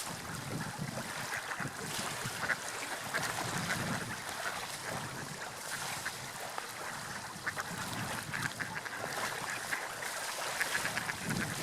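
Water lapping and splashing, with birds calling.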